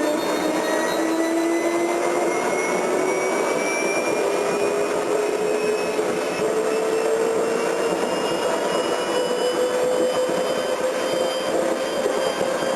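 Jet engine spooling up: a steady rushing roar with a whine that climbs slowly and evenly in pitch.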